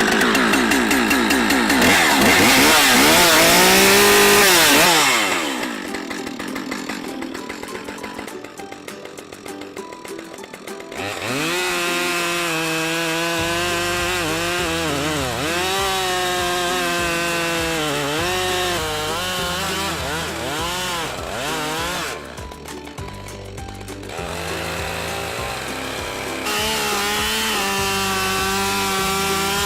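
Husqvarna chainsaw running, its engine pitch rising and falling again and again as it is revved, quieter for several seconds after about five seconds in. Music plays underneath.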